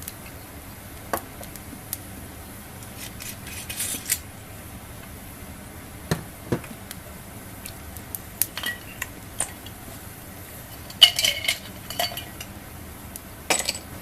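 Scattered clinks and taps of dishes and utensils being handled, some ringing briefly; the loudest cluster of clinks comes about eleven seconds in.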